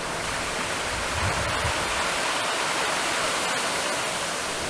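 Steady rushing noise with no pitch or rhythm.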